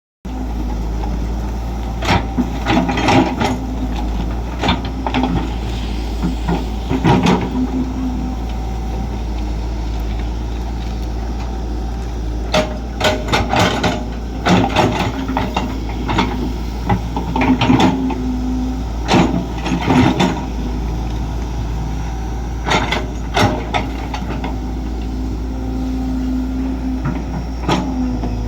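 Heavy diesel engine of a hydraulic excavator running steadily, with irregular clanks and knocks in clusters every few seconds as it works.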